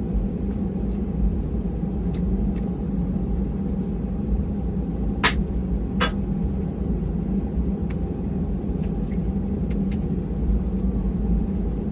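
Steady low cabin rumble and hum of an Airbus A320 on the ground before takeoff, from its engines and air-conditioning. A few sharp clicks and knocks sound over it, the two loudest a little after five and six seconds in.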